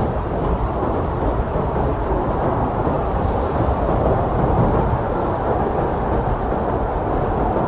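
Strong blizzard wind: a steady, deep rushing noise that never drops off.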